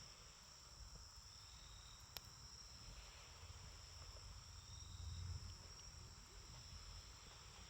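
Faint, steady chirring of insects, with a single sharp crackle from the campfire about two seconds in.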